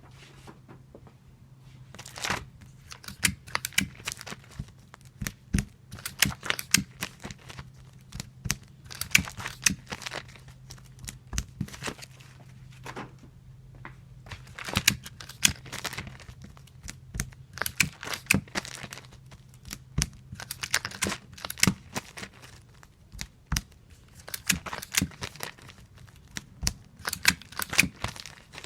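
Clear tape pulled off a tape dispenser and torn off again and again, each pull a quick crackly tear with plastic crinkling, in a repetitive rhythm every couple of seconds. A faint low hum runs underneath and stops partway through.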